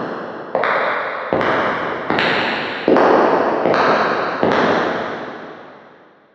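Footsteps at a steady walking pace, about six steps under a second apart. Each step rings on in a long echoing tail, and the last one fades away near the end.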